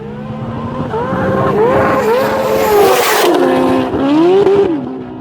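A high-performance vehicle accelerating hard on a track: its engine note climbs and snaps down through several quick upshifts, peaks loudest as it passes close about three seconds in, then the pitch drops and swings as it goes by.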